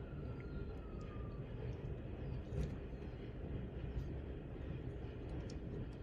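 Small clicks and cracks of a puppy's teeth gnawing a real bone, scattered every second or so over a steady low traffic rumble. A faint thin tone falls slowly in pitch over the first second and a half, like a distant siren.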